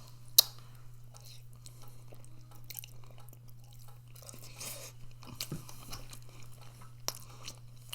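A person chewing food close to the microphone, with small scattered clicks and one sharp click about half a second in. A steady low hum runs underneath.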